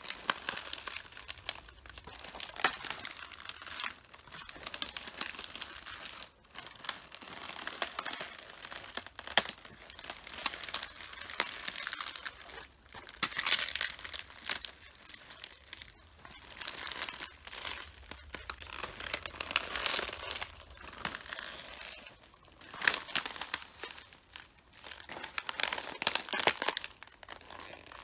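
Red cabbage leaves crunching, crackling and tearing as they are crushed underfoot, in repeated swells of crisp snapping about every one to two seconds.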